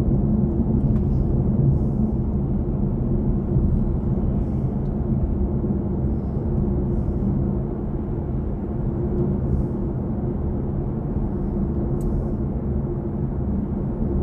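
Steady low road and tyre rumble inside the cabin of a BMW i4 M50, an electric car, while it drives along at an even pace.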